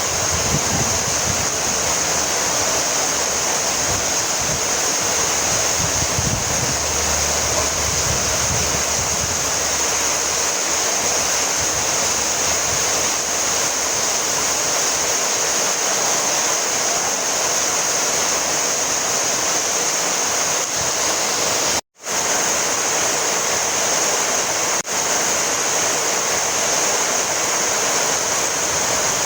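Heavy rain falling steadily, an even hiss with a low rumble in the first several seconds. The sound cuts out for a split second about two-thirds of the way through.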